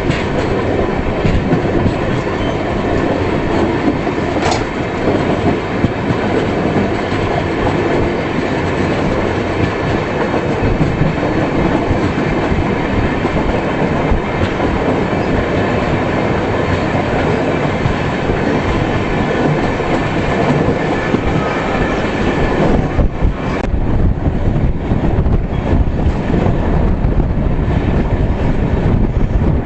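Indian express passenger train running at speed, heard on board: a steady rumble of wheels on rail with the clickety-clack of rail joints. About 23 seconds in, the hiss in the upper range drops away and the low rumble grows heavier.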